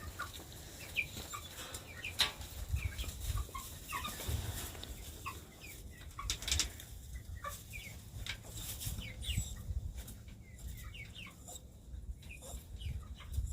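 Chickens clucking, with many short high chirps scattered throughout, from a hen and her newly hatched chicks. A couple of brief rustles stand out, about two seconds in and again past six seconds, over a low rumble.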